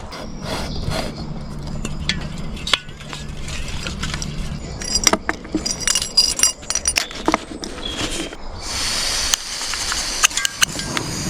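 Metal cookware and utensils clinking and knocking as they are handled, several strikes ringing briefly. A steady hiss starts near the end.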